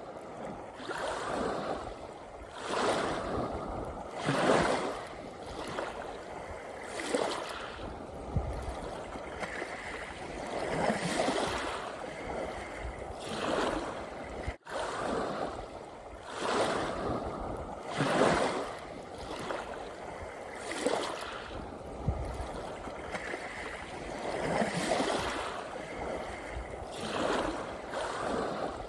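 Sea waves breaking and washing up on a beach, a new wave swelling and fading every two to three seconds. A brief dropout about halfway through.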